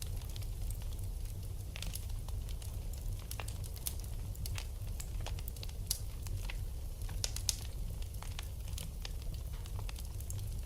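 Wood fire burning in a fireplace: a steady low rumble of the flames with irregular crackles and pops, a few sharper pops about six to seven seconds in.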